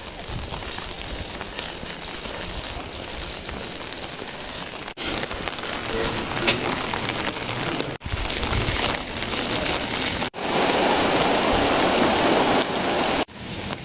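Steady rain falling and pattering on surfaces, in several short stretches joined by abrupt cuts; it is loudest for the last few seconds.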